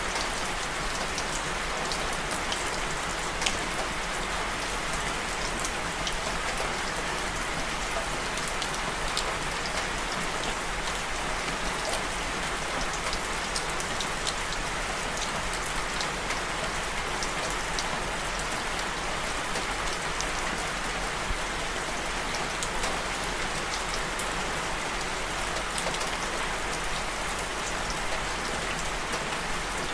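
Steady rain falling, an even hiss with many sharp ticks of single drops scattered through it.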